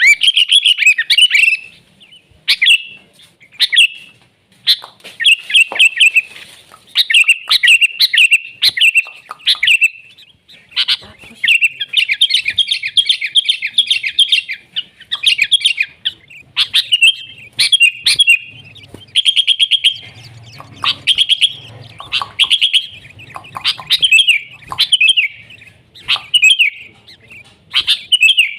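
Sooty-headed bulbul singing: short, bubbly, liquid phrases repeated every second or so, with a longer rapid trill partway through.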